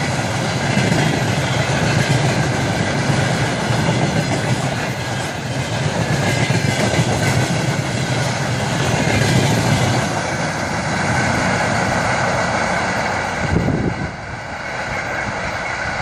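Freight train of empty railway tank cars rolling past at speed, wheels clattering over the rail joints with a steady heavy rumble. The noise drops suddenly near the end.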